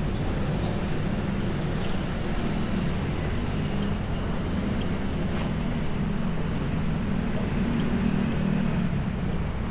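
Street traffic: a steady low rumble of passing vehicle engines, with a few faint clicks.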